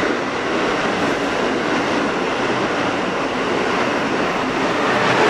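Amtrak passenger train passing through the station at speed, a steady rush of wheels on rails that grows loudest near the end.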